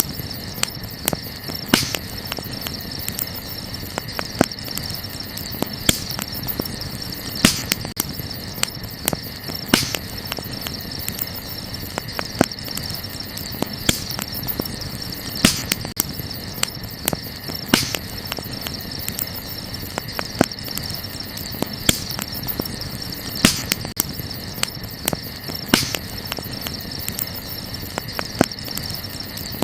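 Wood fire crackling, with frequent small snaps and sharper pops about every two seconds, over a steady high-pitched chirring of night insects such as crickets.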